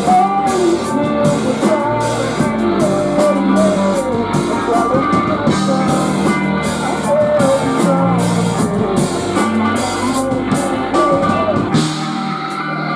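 Post-hardcore band playing live: distorted electric guitars and a bending melody line over a steadily hit drum kit. The drums drop out about twelve seconds in, leaving the guitars ringing.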